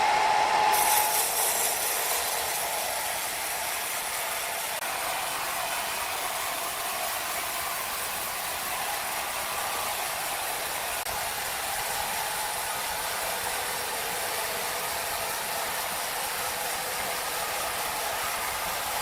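Sawmill machinery running steadily, a continuous mechanical noise, a little louder in the first second or two.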